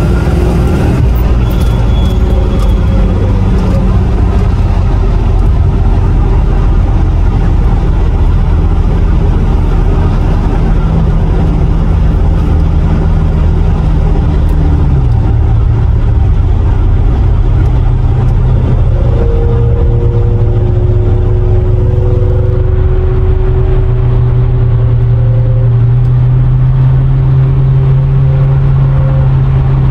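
Car engine and road noise at highway speed, heard from inside a moving car's cabin. A steady engine note drops in pitch about halfway through, as at a gear change or a lift off the throttle, then holds steady again.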